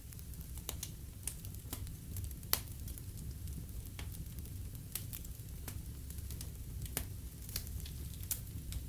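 Wood fire burning in a fireplace, with irregular sharp crackles and pops over a steady low rumble of the flames; one pop about two and a half seconds in is the loudest.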